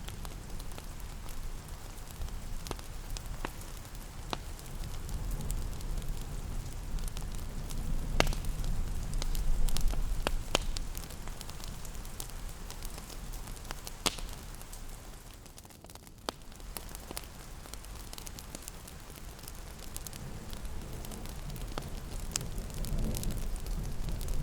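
Fireplace crackling with scattered sharp pops at irregular intervals over a steady low rumble of fire and rain. The rumble dips briefly past the middle.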